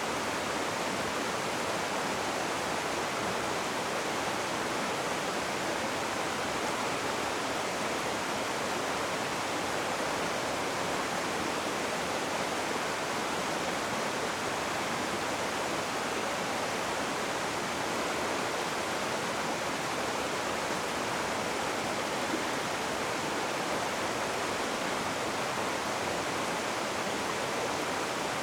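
Rushing river water, a steady unbroken rush of whitewater with no change in level.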